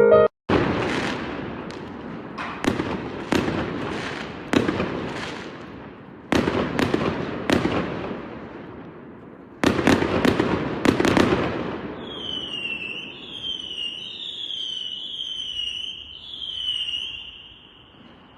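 New Year fireworks going off: about a dozen sharp bangs, some in quick clusters, each trailing off in a crackling rumble. Near the end the bangs stop and five short falling whistles follow.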